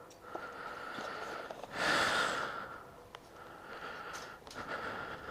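A person breathing hard through the nose while working, with a loud sigh about two seconds in and a faint thin whistle running under the breaths.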